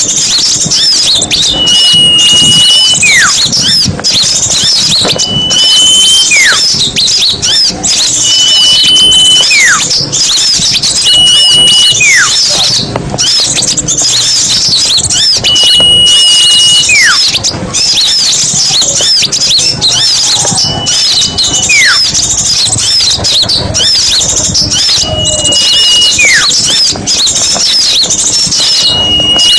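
Lure recording of many small songbirds chattering and twittering together in a dense, high-pitched chorus. About every three seconds, a steady high whistle is followed by a whistle that slides downward.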